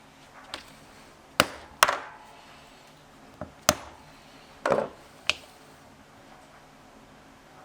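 Leatherworking tools knocking and tapping on a wooden workbench: about five sharp, irregular knocks, one followed by a brief ring.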